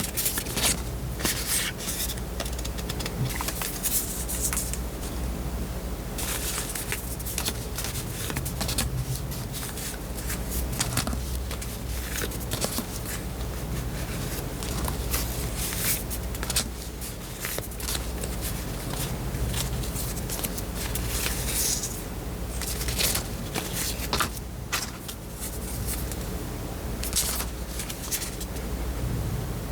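Cut sticker sheets and their packaging handled close to the microphone: paper and plastic rustling and crackling in an irregular stream of light scrapes and crinkles, over a steady low hum.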